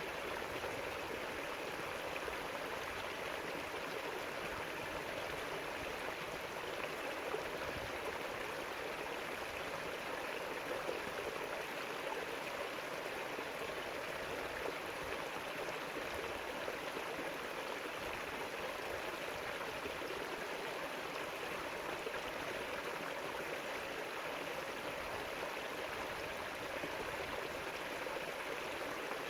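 River water rushing and gurgling over rocks, a steady even flow with no change.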